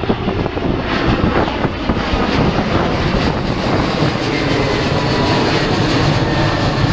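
Jet airliner's engines, a loud steady rumble as the plane flies past.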